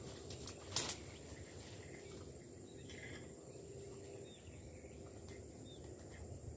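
Quiet outdoor ambience with faint insect and bird chirps, and a single sharp click just under a second in.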